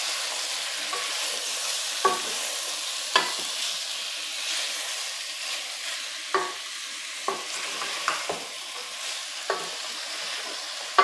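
Sliced beef tongue, onion and sweet pepper sizzling as they fry in a pan, stirred with a wooden spoon that knocks sharply against the pan now and then.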